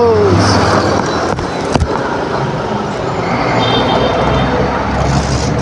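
Motor scooter riding along a busy road: its engine runs steadily under road and traffic noise, with a short sharp knock a little under two seconds in.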